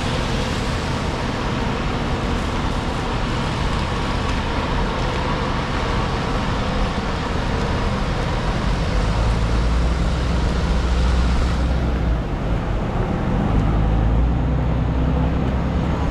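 City street traffic on rain-wet pavement: engines running with a steady tyre hiss, and a deeper engine rumble from a large vehicle that grows heavier about halfway through.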